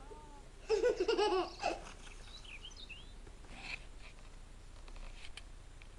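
A short burst of laughter, about a second long, in quick rising-and-falling pulses, followed by a few faint chirps.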